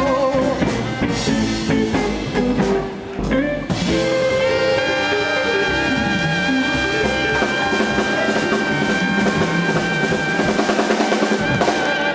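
Live small band with tenor saxophone, guitar, bass and drum kit playing the drawn-out ending of a song. Drum fills come first, then a long held final chord over a drum roll that builds near the end.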